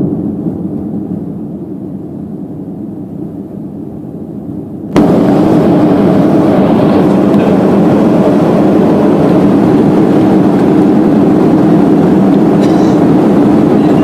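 Loud, steady engine and cabin noise of a vehicle in motion. It is muffled for the first five seconds, then comes back suddenly at full level.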